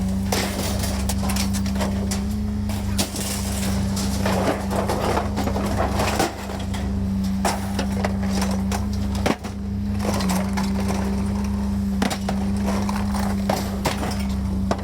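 A steady low machine hum, with scattered clicks and knocks.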